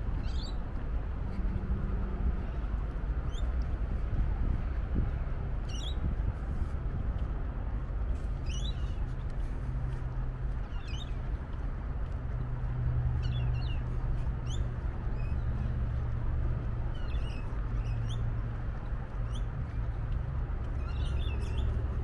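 Short, high bird chirps every two or three seconds over a steady low rumble of wind on the microphone.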